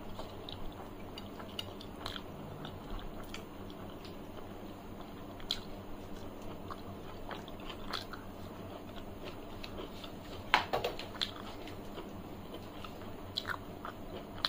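Close-miked chewing and mouth sounds of a person eating rice and fried vegetables by hand, with scattered sharp clicks, the loudest cluster about ten and a half seconds in.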